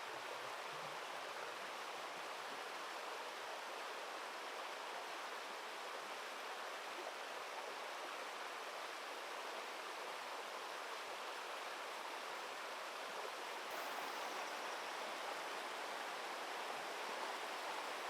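Steady rush of flowing river water, a little louder from about three-quarters of the way through.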